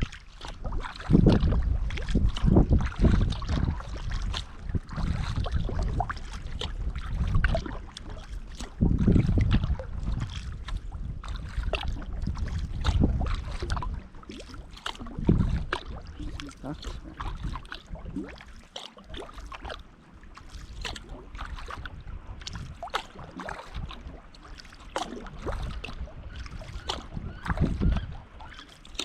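Kayak paddling: the paddle blades dipping and splashing, with water dripping off them in many small ticks, and low rumbling surges now and then. It is louder in the first half and quieter from about halfway on.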